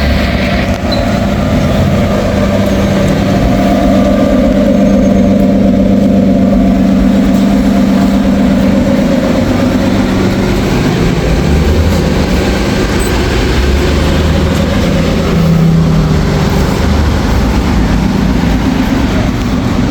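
City road traffic: vehicle engines running with a low steady hum that shifts in pitch a few times, over a constant rush of traffic noise.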